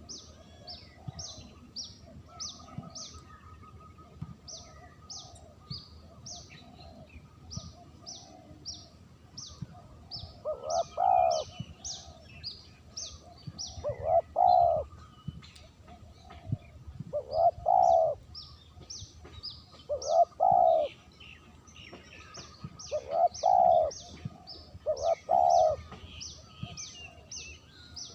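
Spotted dove (terkukur) cooing: loud coo phrases repeating about every three seconds from about ten seconds in, fainter before that. This is the clean call used as a lure (pikat) for spotted doves. Short high chirps of smaller birds run throughout.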